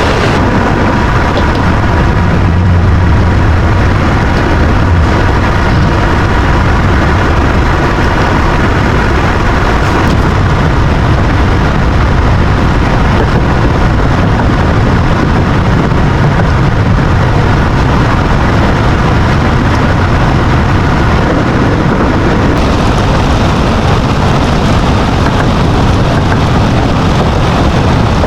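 Semi-truck running, a loud steady low rumble with a hiss of road and rain noise over it.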